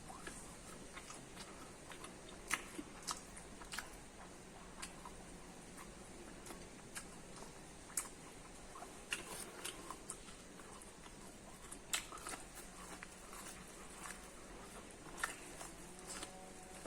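Close-up eating of corn: biting and chewing kernels, heard as an irregular scatter of sharp, crisp clicks and mouth smacks, with a few louder ones every few seconds.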